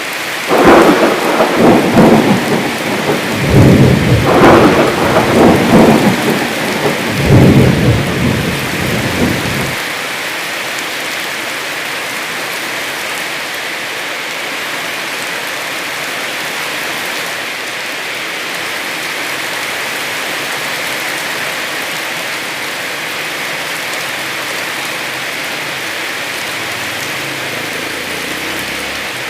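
Heavy rain falling steadily. A loud roll of thunder rumbles in several surges over the first ten seconds or so, then dies away, leaving the steady rain.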